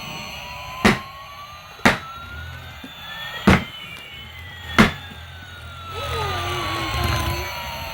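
Battery-operated toy airplane's electronic jet sound effect: a slow rising whine and a slow falling whine that overlap and cross. Four sharp knocks come in the first five seconds.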